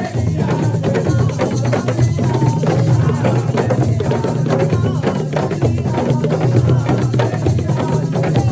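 Assiko band playing: a busy, driving rhythm of hand drums and percussion under voices singing.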